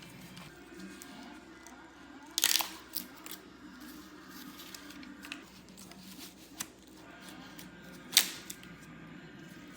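Engine MDS solenoids being snapped off with channel locks: two sharp cracks, about 2.5 seconds in and near the end, with a few lighter clicks between.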